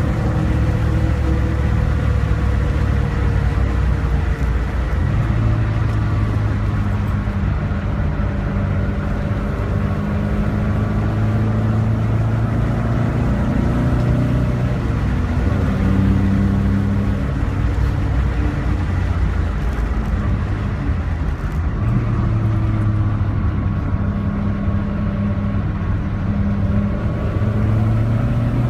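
Alfa Romeo Giulia's four-cylinder engine pulling hard on a track lap, heard from inside the car. The pitch climbs through each gear, drops at the gearchanges and eases off when braking for corners, over steady road and wind noise.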